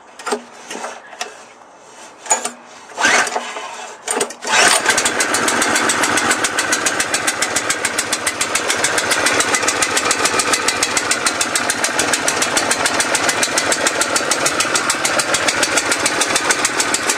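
Pressure washer's 6.5 hp single-cylinder petrol engine cold-started on full choke: several short cranking attempts, then it catches about four and a half seconds in and runs steadily at wide-open throttle with a fast, even firing beat.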